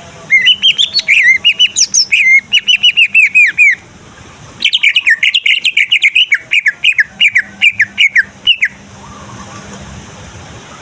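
Male green leafbird (cucak ijo) singing in two fast bursts of sharp, swooping chirps, each several seconds long, with a short pause between them.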